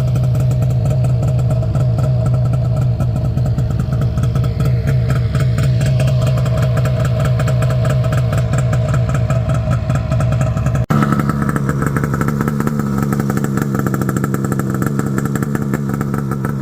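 Snowmobile engine running steadily while under way. About eleven seconds in, the sound breaks off for an instant and then carries on at a different pitch.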